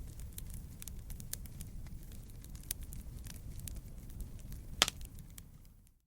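Fireplace fire crackling, with many small snaps over a low steady rumble and one loud pop a little before five seconds in. The sound fades out briefly at the very end.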